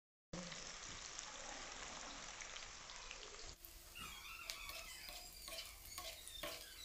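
Sliced okra frying in hot oil in an aluminium kadai: a faint, steady sizzle. About three and a half seconds in it turns to scattered light crackles and ticks as a slotted spoon stirs the okra.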